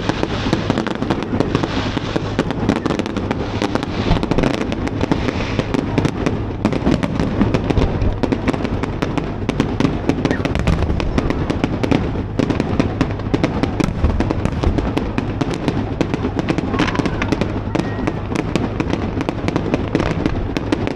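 Fireworks display going off: a dense, continuous crackle of rapid pops and bangs with no break.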